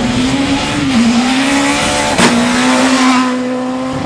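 Rally car engine revving hard along the stage, its pitch climbing and dipping. About two seconds in there is one sharp crack, after which the engine note drops and holds steady.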